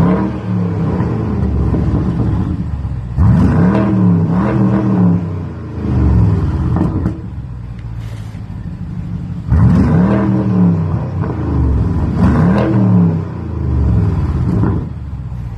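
BMW 750 F01 engine revved in a series of quick blips through its tuned exhaust, each rev rising and falling in pitch, with a deep idle rumble between.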